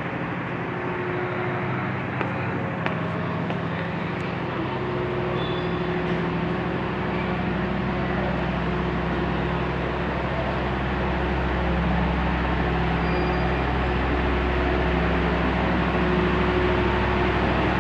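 Steady running noise of a moving vehicle: a low rumble with a hum, growing louder and deeper about four seconds in and then holding steady.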